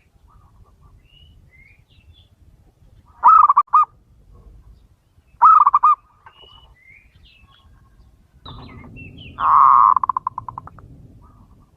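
Male zebra dove cooing: two short staccato coos about two seconds apart, then a longer rolling coo whose notes come faster and fade away near the end. Faint higher chirps of other small birds sound between the coos.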